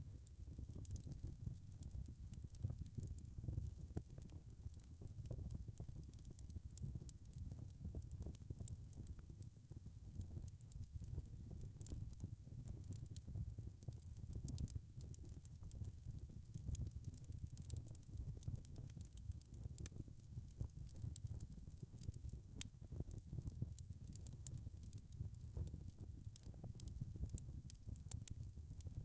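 Wood fire burning, with a steady low rumble and frequent small crackles and pops.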